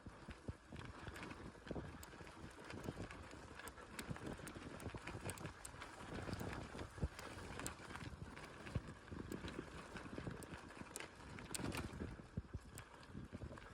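Bicycle being ridden over rough ground, rattling with irregular clicks and knocks over a steady rush of tyre and wind noise.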